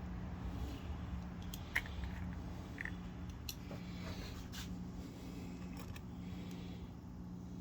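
Adjustable wrench working a small bolt on a pump housing: a handful of light metal clicks and scrapes in the first five seconds, the sharpest a little under two seconds in, over a steady low hum.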